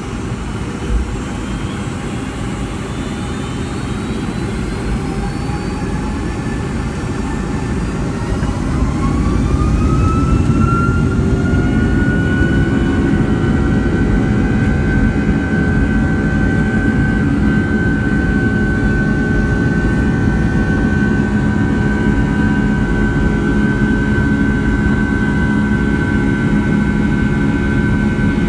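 Rolls-Royce RB211 turbofans of a Boeing 757-200, heard from inside the cabin, spooling up to takeoff thrust. A whine rises in pitch and loudness over several seconds, then holds steady as a high tone over a heavy rumble.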